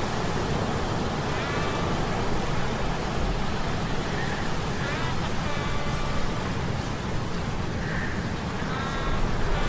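Steady, dense rumble of a stormy sea mixed with a low mechanical hum, with brief high squeaks rising above it about every three to four seconds.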